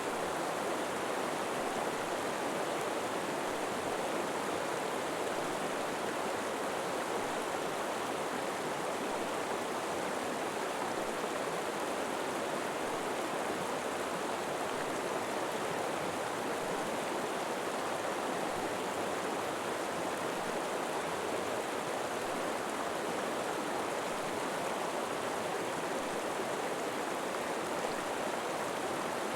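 River water flowing steadily over rocks, an even rushing without breaks.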